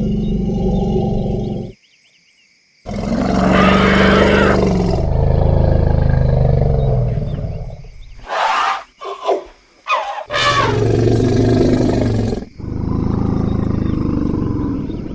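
Elephants calling: deep, pitched rumbles and roars, broken by a brief silence about two seconds in, with short shrill trumpet blasts around eight and ten seconds in.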